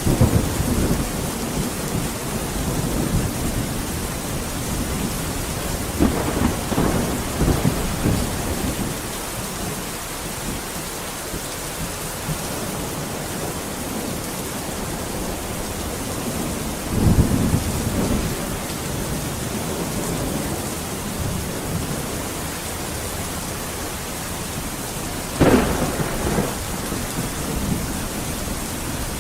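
Steady rain falling, with rolls of thunder rumbling over it several times, and a sharper thunderclap about twenty-five seconds in that trails off into rumbling.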